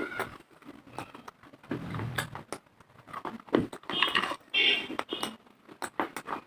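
Dry clay being bitten and chewed: sharp, irregular crunches and cracks, one after another, with small mouth sounds between them.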